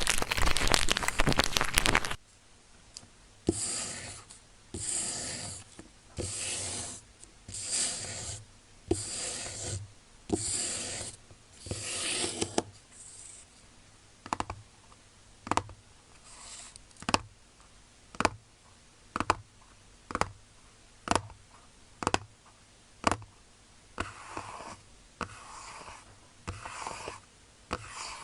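Close-miked ASMR trigger sounds: a dense burst of rustling noise for the first two seconds, then slow rhythmic scratching or brushing strokes about once a second. Past the middle they give way to sharp single taps at the same pace, and softer strokes return near the end.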